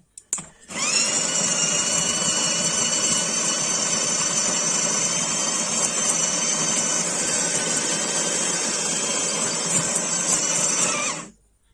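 The built-in conical burr grinder of a De'Longhi Specialista Prestigio espresso machine grinding a dose of coffee beans into the portafilter. Its motor spins up with a rising whine just under a second in, runs steadily for about ten seconds, and winds down shortly before the end.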